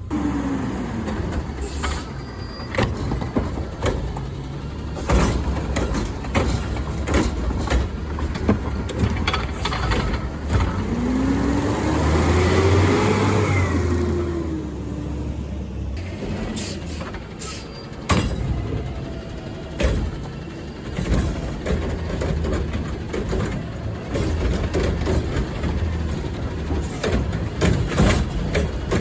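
Garbage truck at work: a steady diesel engine hum with repeated clanks and knocks, and near the middle a whine that rises and then falls as the engine revs up and settles back down.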